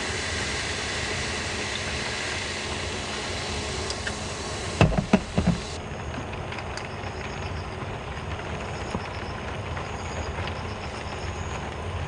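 Heavy rain falling steadily. About five seconds in come three or four loud knocks in quick succession, and after them the rain sounds duller.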